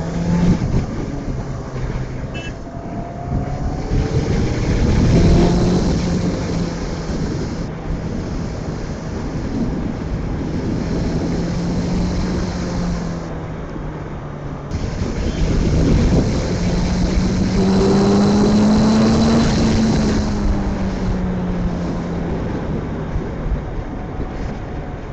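Honda CBR650F's 650cc inline-four engine running under way, its revs climbing and easing off twice, with wind rushing over the microphone.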